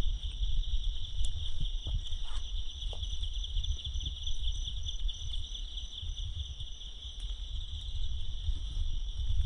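Steady, high-pitched insect chorus trilling in the forest, over an uneven low rumble.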